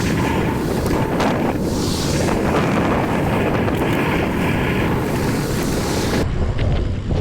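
Wind buffeting the microphone while riding a BMX bike, a loud, steady rumble and rush. The hiss cuts off abruptly about six seconds in, leaving a duller rumble.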